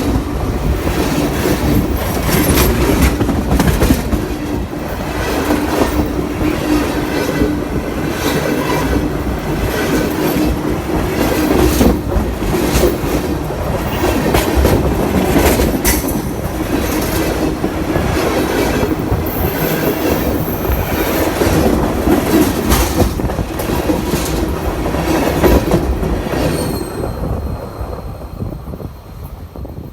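CSX freight train cars rolling directly over the microphone: wheels clacking and banging over the rail in quick irregular knocks, over a steady rumble. Near the end the train passes and the noise fades, leaving faint high ringing tones.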